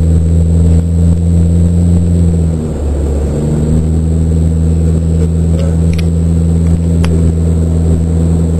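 Car engine running steadily under way; about two and a half seconds in its note drops away for under a second and then picks up again, with a few light clicks later on. The automatic transmission is described as holding gears and not shifting.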